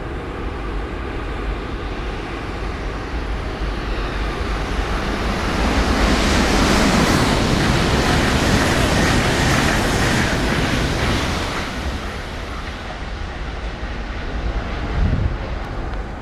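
Shinkansen train passing through a station at speed without stopping: a rushing roar that swells over several seconds, peaks, then fades away. A brief low thump comes near the end.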